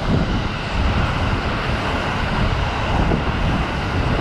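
Kintetsu 50000 series 'Shimakaze' limited express passing through the station without stopping: a loud, steady rush of wheels on rail and moving air that rises sharply as the front of the train comes alongside.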